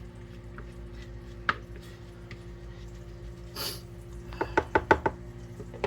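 A steady low hum with scattered sharp knocks: one about a second and a half in, then a quick run of five or six near the end, with a brief hiss in between.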